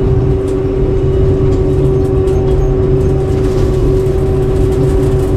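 Combine harvester running steadily while harvesting soybeans: a constant low engine drone with a steady whine above it.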